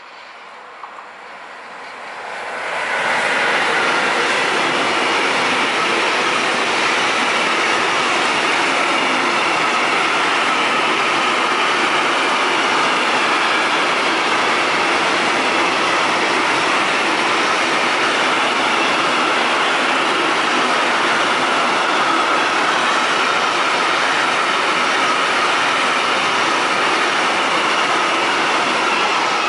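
Loud, steady rolling noise of an intermodal freight train's wagons, loaded with truck trailers, running past on the track. The noise builds quickly about two to three seconds in as the train arrives, then holds steady and begins to ease right at the end.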